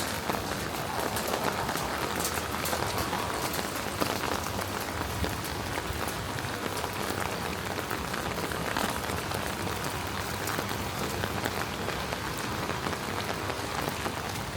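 Steady rain falling, an even hiss of rain with many small, sharp drop ticks throughout.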